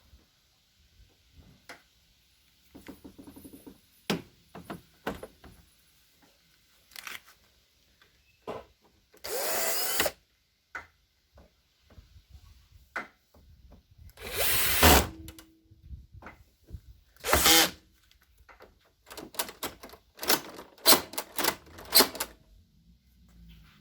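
Power drill run in several short bursts, the longest about a second, with clicks and knocks of small parts and tools being handled in between.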